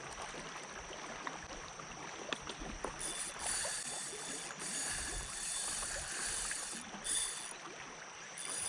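Water lapping and splashing around a paddle board on a river, with small knocks and splashes. From about three seconds in, a high buzz comes and goes several times.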